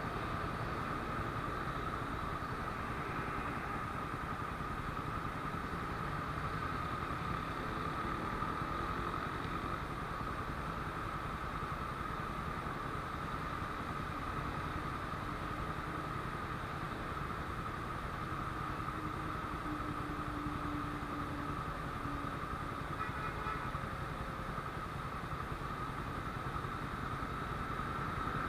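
Suzuki Raider 150's carburetted single-cylinder four-stroke engine idling steadily while the motorcycle stands still, with the sound of motorcycles idling close by.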